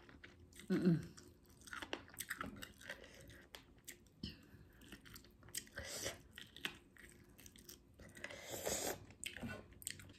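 A person chewing and crunching food close to the microphone, with many small wet mouth clicks and a brief low vocal sound about a second in.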